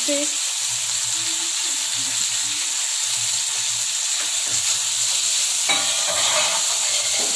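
Chopped tomatoes and capsicum sizzling in hot oil in a kadhai while a metal spatula stirs them, with a louder scrape of the spatula against the pan about six seconds in.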